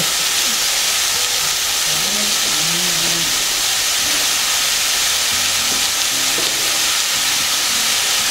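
Chicken, lotus root and konnyaku sizzling in hot oil in a stainless steel pot, a steady loud frying hiss. This is the sauté stage before the vegetables are simmered.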